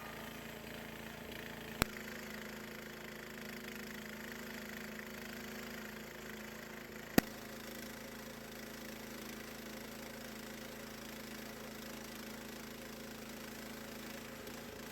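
Portable band sawmill's engine running at a steady pitch, with two sharp clicks about two and seven seconds in.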